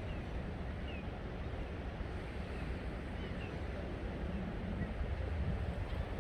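Wind rumbling on the microphone over a steady wash of seaside noise, with faint short falling chirps about once a second.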